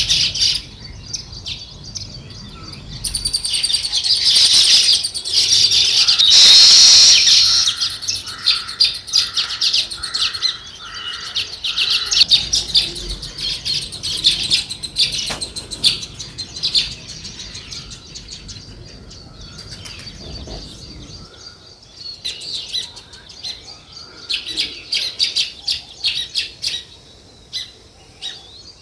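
A flock of small songbirds chirping busily, with many quick overlapping chirps. The chirping is loudest in the first several seconds and swells again near the end.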